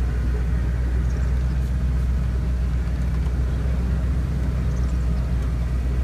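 Engine running steadily with a low rumble, as of a vehicle on the move.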